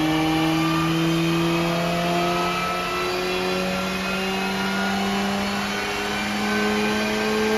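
Supercharged four-cylinder engine of an R53 Mini Cooper S pulling under load on a rolling road, its note climbing slowly and steadily as the revs build during a power run.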